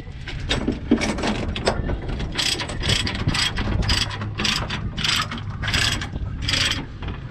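Tie-down chain hardware on a truck trailer being worked: a run of short metallic ratcheting strokes, about two a second, starting a couple of seconds in, over a steady low hum.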